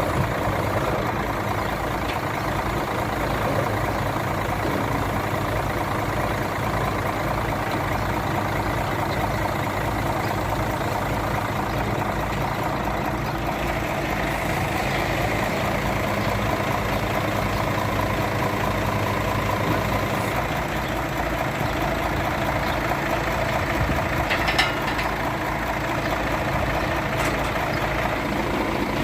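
Boom truck's engine running steadily at a constant speed, with one brief sharp click about three-quarters of the way through.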